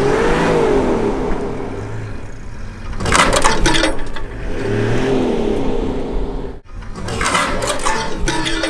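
Safari 4x4 engine revving under load in mud, its pitch rising and falling twice as the vehicle strains to get out of where it is stuck. Two louder, harsh rushing bursts come about three and seven seconds in.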